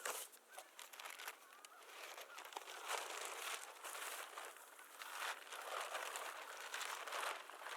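Rustling and crinkling in repeated bursts with small clicks, like camping gear being handled, with a few faint bird chirps early on.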